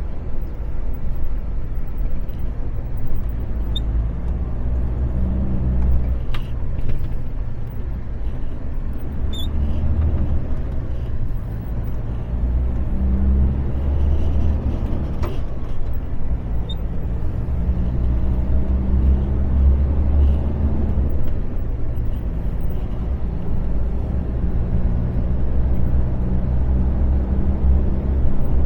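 Diesel engine of an articulated truck running under way, heard from the cab as a steady low drone whose pitch shifts up and down with the road, with a few light clicks.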